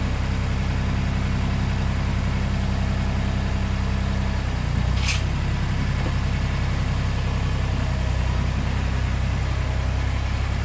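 Compact tractor with a front loader, its engine running steadily; the engine note shifts slightly about halfway through, with a brief hiss just after.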